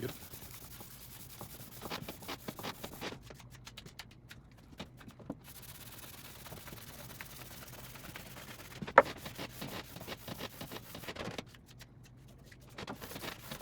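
Hand block sanding of a tabletop's finish between coats: a sanding block rubbed back and forth over the surface in repeated strokes. One sharp tap about two-thirds of the way through.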